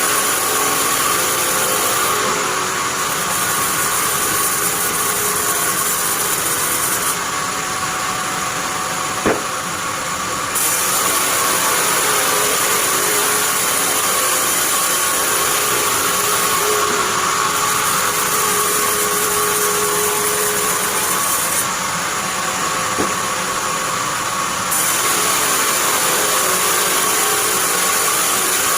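Band sawmill running steadily, sawing pine. Twice, for a few seconds, the sound thins and drops a little, each time with one sharp knock.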